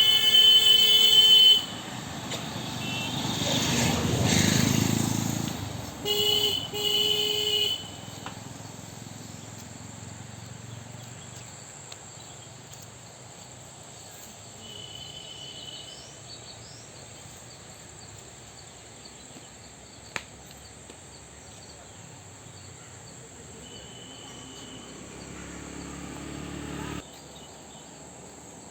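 Steady high-pitched drone of crickets or other insects, with a vehicle horn honking at the start and again about six seconds in, and a vehicle passing around four seconds in.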